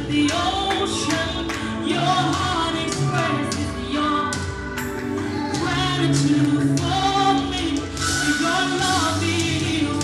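Live gospel music: a band with held keyboard chords and cymbals, with singing over it.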